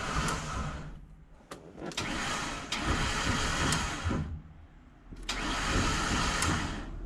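Van's starter motor cranking in three separate tries of a second or two each, each one starting with a click and making a harsh grinding noise: the sign of a failed starter.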